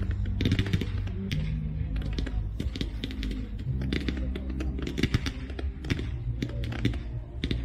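Fireworks crackling in rapid, irregular clusters of sharp pops over music with steady held bass notes.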